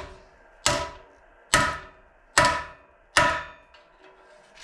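Hammer striking the steel sub rail of a 1932 Ford against a dolly: four ringing metallic blows, a little under a second apart, knocking a high spot down flat.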